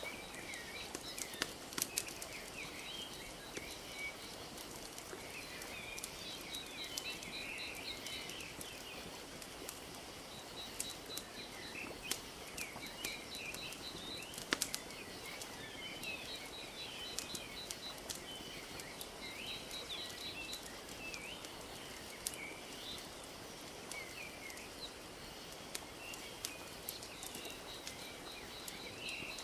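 Wood fire crackling with irregular sharp pops over a steady wash of small lake waves lapping. Birds chirp throughout, with a short high rapid trill repeating every few seconds.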